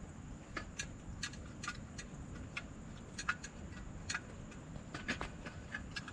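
Wind rumbling over the microphone, with irregular sharp ticks and clicks about twice a second.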